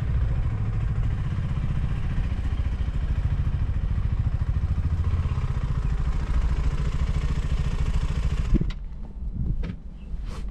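Motorcycle engine idling steadily, then switched off about eight and a half seconds in, followed by a few clicks.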